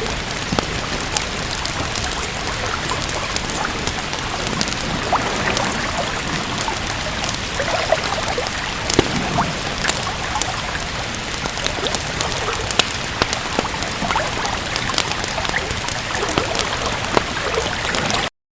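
Steady rain with scattered sharp crackles from a wood fire. The sound cuts out suddenly just before the end.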